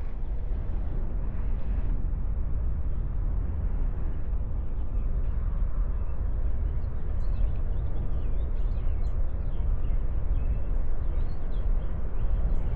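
Wind buffeting the microphone, a steady low rumble. Faint short bird chirps come through from about four seconds in.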